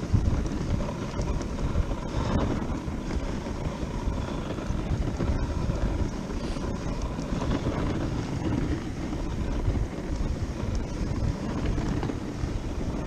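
Wind buffeting the microphone on a moving dog sled: a steady, uneven rumbling rush.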